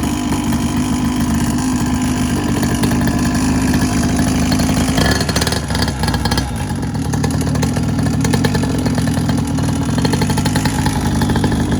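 Small two-stroke quad bike engine running just after starting, on choke: a fast, even buzz with a steady low note that shifts about five seconds in.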